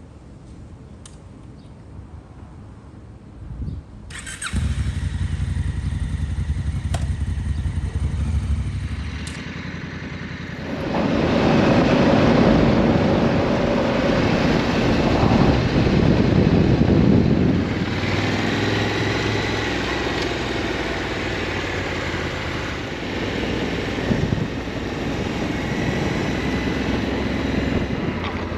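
Motorcycle engines: fairly quiet at first, then an engine starts running about four seconds in. From about ten seconds in the engine and road noise grow louder for several seconds, then settle to a steady run.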